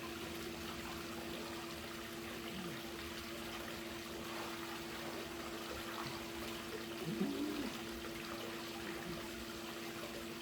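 Swimming-pool water splashing and trickling steadily, with a steady low hum underneath. A brief wavering sound about seven seconds in.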